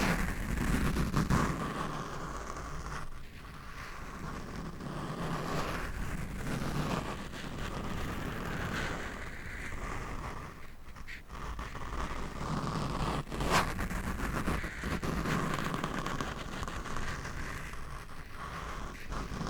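Scratching and rubbing directly on a microphone, a continuous close rustling scrape, with a sharp tap about two-thirds of the way through.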